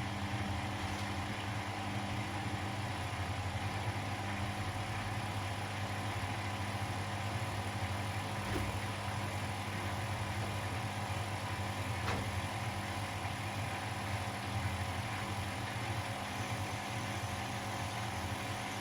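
Laundry machines running with a steady low motor and drum hum. A faint tick comes about twelve seconds in.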